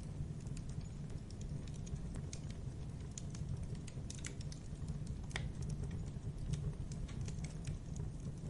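Campfire burning with a steady low rumble and irregular wood crackles and pops, the sharpest pop about five seconds in.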